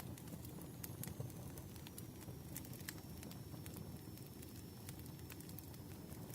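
Campfire burning: a steady low rumble of flames with sharp wood crackles and pops scattered irregularly through it, and a faint thin high whine.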